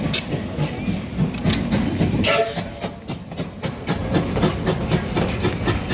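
Steam train on the move: the locomotive working with a run of sharp repeated beats over a steady low rumble of the train rolling on the track.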